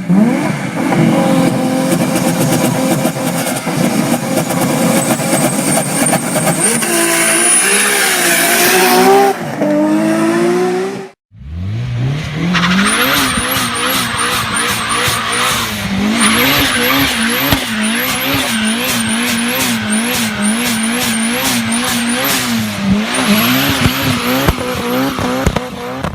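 High-performance car engines revving hard with a dense crackle from the exhaust, in two separate stretches with a short break between them. In the second stretch the engine pitch rises and wavers up and down while short high-pitched chirps repeat over it.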